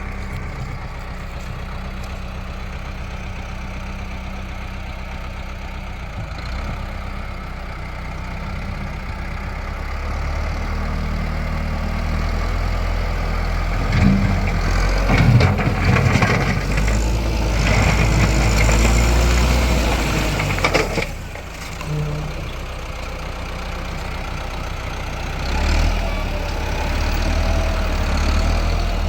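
Tractor engine running steadily, growing louder in the middle with some clattering knocks, then dropping back sharply to a steady idle.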